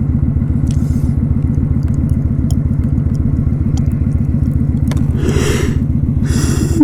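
Kawasaki Vulcan 900's V-twin engine running steadily under way, its exhaust pulsing evenly. Two short rushes of noise come near the end.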